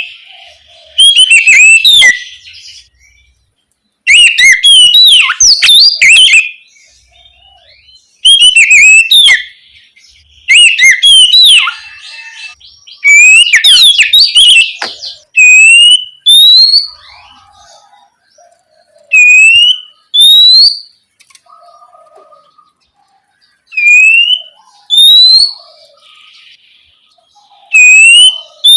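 Oriental magpie-robin singing. Loud bursts of rapid, varied whistled phrases about a second or two long, then from about halfway single clear rising whistles repeated every second or two.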